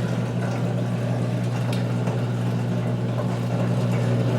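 2006 GE Profile Harmony top-loading wash-plate washer running mid-cycle, its motor giving a steady, even hum.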